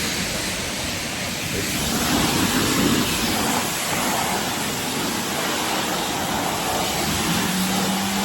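Steady hiss of a high-pressure water spray washing a car, with a faint steady hum coming in near the end.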